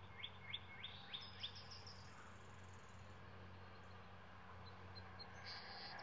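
Faint birdsong: a run of about five short chirps, each higher than the last, then a higher drawn-out note, over a low steady hum.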